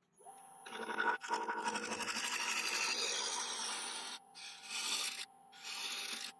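Wood lathe spinning a laburnum bowl blank with a steady whine, and a turning tool cutting into the wood with a hissing scrape: one long cut of about three and a half seconds, then two shorter passes near the end.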